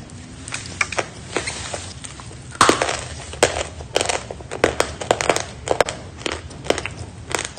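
Sawn chalk being bitten and chewed: a run of sharp, irregular crunches, about two a second, the loudest about two and a half seconds in.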